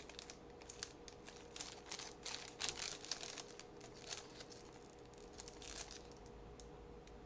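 Trading cards and their foil pack wrapper being handled: faint crinkling and rustling with scattered small clicks, over a low steady hum.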